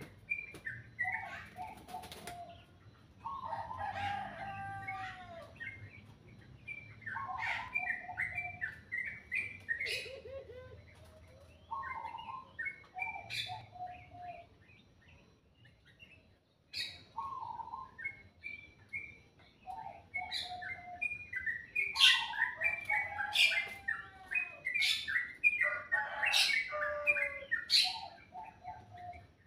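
Songbirds singing: short phrases of whistled notes, several falling in pitch, repeated every few seconds, mixed with sharp high clicks and chips.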